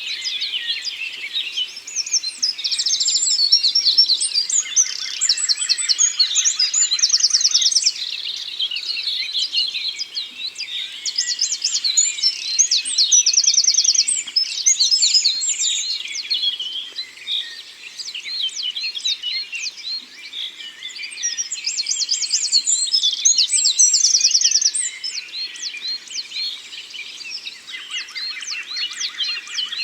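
Several songbirds singing at once in a forest dawn-chorus style: overlapping chirps, whistled phrases and fast rattling trills, some repeated every few seconds.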